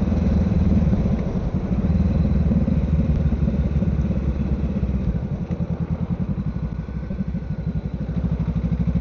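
Honda Rebel 500's parallel-twin engine running on the move. It drops to a lower, slower pulsing beat for a few seconds past the middle, then picks up again near the end.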